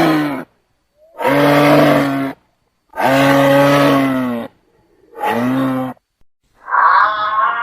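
An animal giving a series of long, even-pitched calls, about a second each with short pauses between; near the end a different, wavering wail begins.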